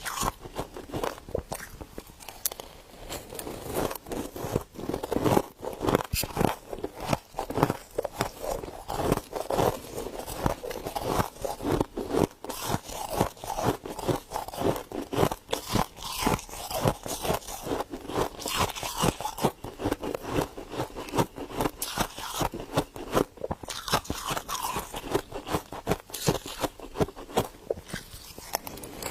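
Freezer frost being bitten and chewed, a dense unbroken run of small crisp crunches that goes on without pause.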